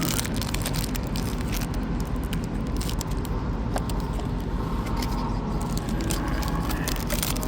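Steady low rumble of idling diesel trucks, with scattered light crackles and scrapes from the card box and packs being handled.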